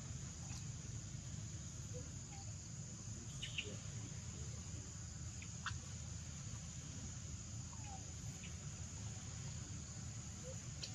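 Steady high-pitched insect drone, with a few faint short chirps scattered through.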